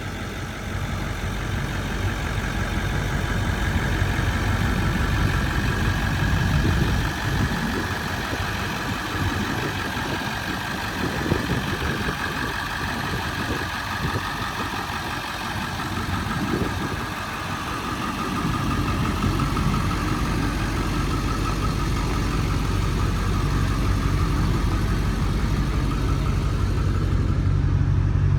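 1999 International 4700 rescue truck's engine idling steadily, with an uneven low rumble through the middle of the stretch.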